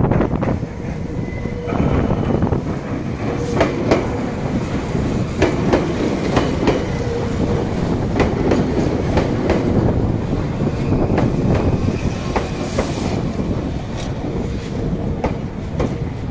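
Meitetsu electric commuter train passing close by: a steady rumble of the running gear, with the wheels clicking sharply over rail joints at irregular intervals.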